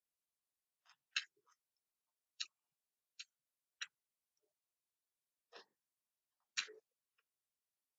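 Eating sounds: about six short, sharp clicks scattered over several seconds, with near silence between them.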